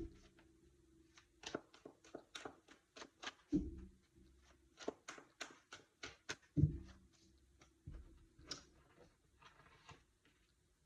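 Tarot cards being handled and shuffled by hand: faint, irregular flicking clicks of the cards, with three soft thumps, at the start, about three and a half seconds in, and near the middle, that ring briefly.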